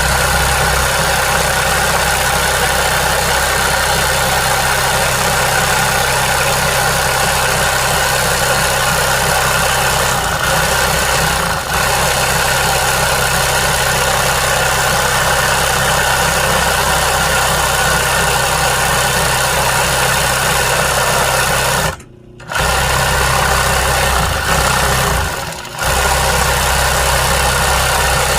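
Sewing machine running steadily while stitching embroidery, stopping for a moment about 22 seconds in and slowing briefly a few seconds later.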